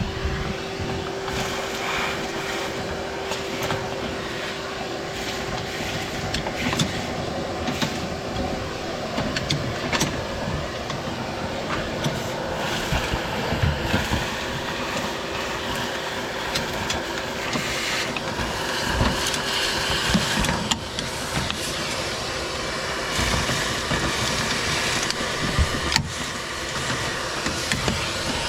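Shop vacuum running with a steady hum, stopping near the end, with scattered knocks and rattles over it.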